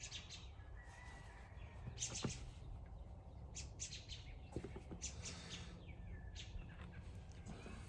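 Small birds chirping in short high clusters about once a second, over a steady low hum, with a few faint clicks.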